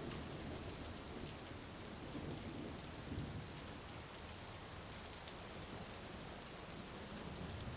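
Steady heavy rain, with a low, rolling rumble of thunder through the first half that fades away.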